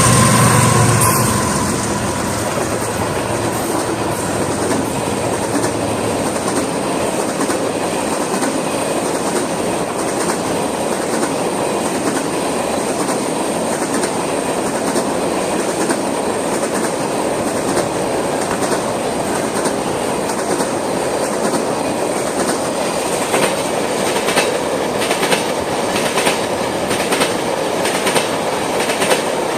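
Freight train of oil tank cars rolling past at close range: a steady rumble of steel wheels on rail with a running clickety-clack over the rail joints, the clicks growing sharper and more frequent near the end. A louder low rumble fades away in the first couple of seconds.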